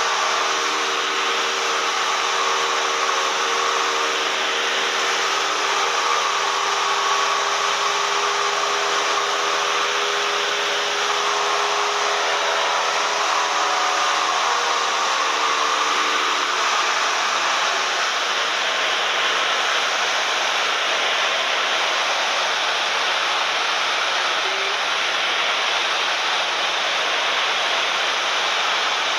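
Cessna 172M's four-cylinder Lycoming engine and propeller droning steadily in flight, with a heavy rush of air. A set of engine tones shifts in pitch about halfway through and fades into the steady drone.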